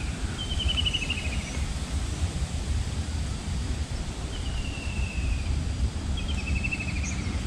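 A bird calls three times, each a short trill of rapid notes that falls slightly in pitch, over a steady low rumble of wind on the microphone.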